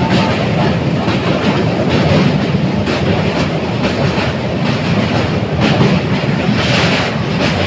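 A train running across a steel truss bridge, heard from inside the coach at the window: a loud, steady rumble of wheels on the rails, with a few faint irregular knocks.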